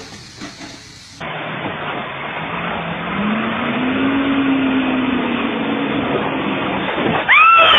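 A motor vehicle's engine and road noise come in suddenly about a second in; the engine pitch rises a couple of seconds later and eases off again. Near the end a person's voice cries out loudly.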